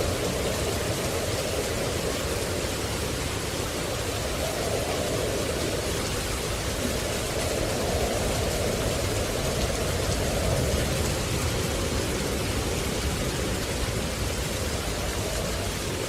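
Steady rushing nature-sound ambience with no distinct events; its lower band slowly swells and fades every four or five seconds.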